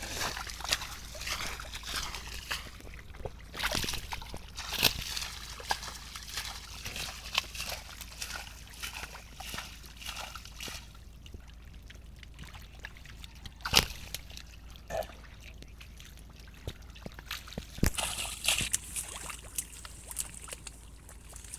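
Shallow water sloshing, splashing and trickling as it is worked by hand, with scattered sharp knocks and clicks.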